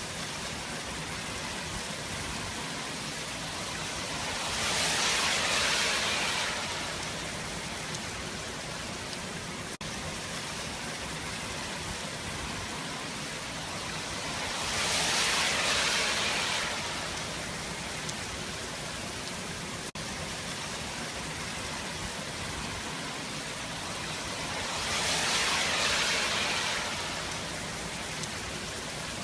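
Heavy hurricane rain driven by wind: a steady hiss that swells louder three times, evenly spaced about ten seconds apart.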